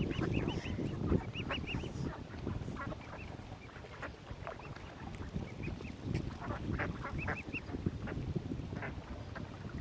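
A crowd of waterfowl and gulls calling while being fed: many short, overlapping squawking calls, several in quick runs, over a steady low rumble.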